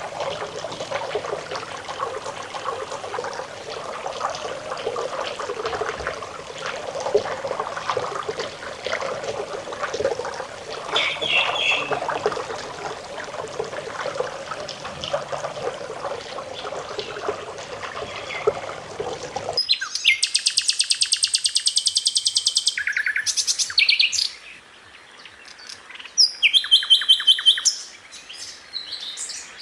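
Trickling water ambience that cuts off abruptly about two-thirds of the way through, followed by a sikatan londo flycatcher singing: fast rolling trills and sharp high notes, with a brief pause between phrases.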